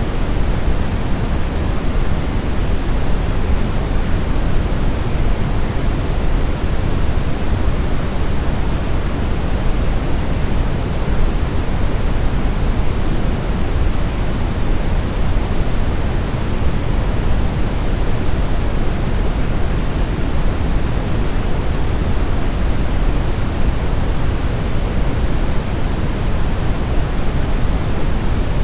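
Steady brown noise: an even, continuous rushing hiss weighted heavily toward the low end, unchanging throughout.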